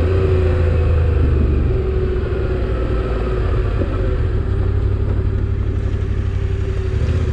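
Motorcycle engine running steadily while being ridden, heard from on the bike, with a low, even engine note.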